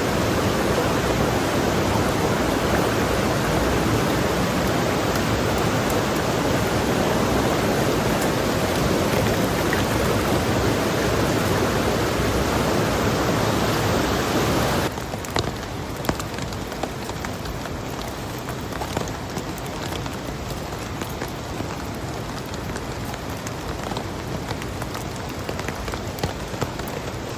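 Steady rushing of heavy water noise for about fifteen seconds, then an abrupt cut to quieter rain, with many separate drops ticking on a surface.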